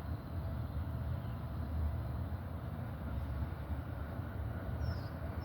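Steady low outdoor rumble with no distinct events: background noise of a neighbourhood street.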